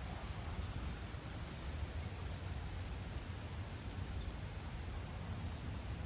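Wind buffeting the microphone: a steady, uneven low rumble with a faint hiss above it.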